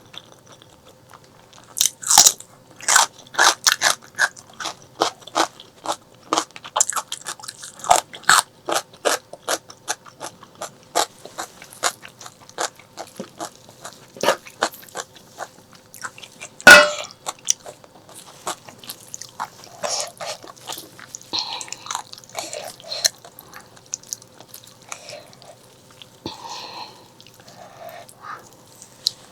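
Close-miked eating: a dense run of crisp crunching bites and chewing, with one sharp, loudest crack about seventeen seconds in, then softer, wetter chewing.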